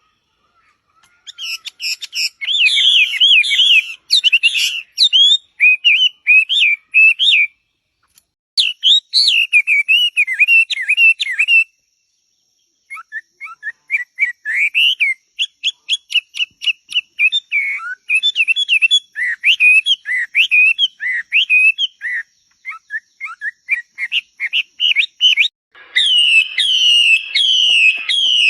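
A songbird singing long, varied warbling phrases of quick whistled notes, broken by short pauses, with a fast run of repeated notes about halfway through.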